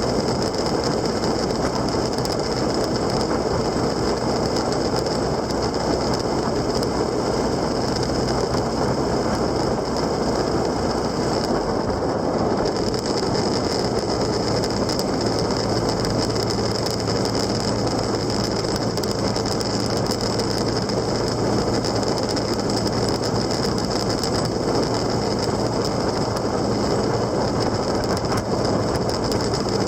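Steady mechanical rattling and running noise of a vehicle on the move, recorded on board. The low rumble changes about twelve seconds in.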